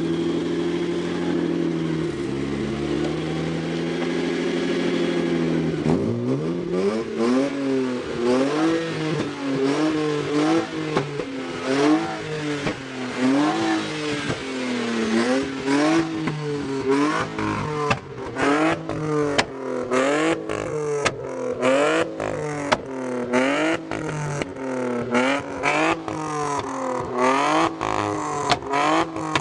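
BMW E30's swapped-in M52 2.8-litre straight-six held at steady revs, then blipped again and again, about one rev every two seconds. From about two-thirds of the way in, the exhaust crackles and pops as the revs fall.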